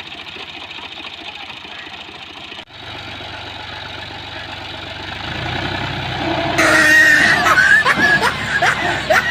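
Tractor engine running steadily. About two and a half seconds in the sound breaks off abruptly, then the engine comes back and grows louder, and from about six and a half seconds in it is much louder and noisier, with wavering higher tones over it.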